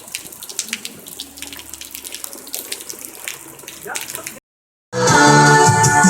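Rain falling and dripping: a steady hiss with many small irregular ticks. After a brief cut to silence about four and a half seconds in, loud music with a shaker beat starts.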